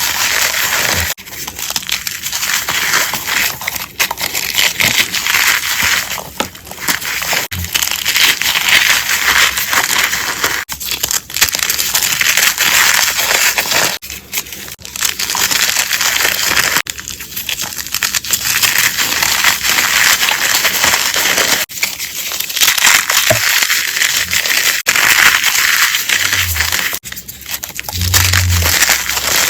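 Blocks of gym chalk being crushed and crumbled close to the microphone: a dense, crunchy crackle, in short takes that cut off abruptly every few seconds.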